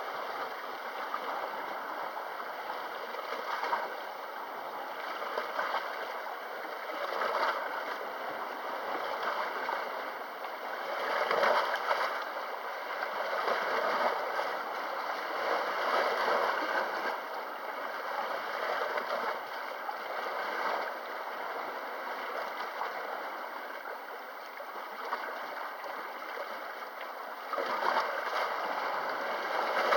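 Sea waves washing and lapping against the shore: a steady wash that swells every few seconds, loudest about eleven seconds in and again near the end.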